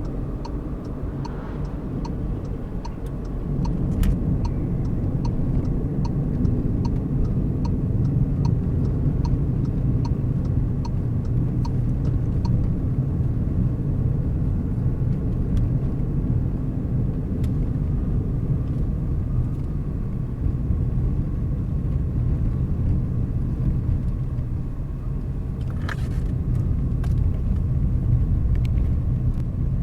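Car driving at a steady pace, with a continuous low road and engine rumble. For the first twelve seconds or so a faint, regular ticking runs at about one and a half ticks a second. There is a single sharp click about four seconds in.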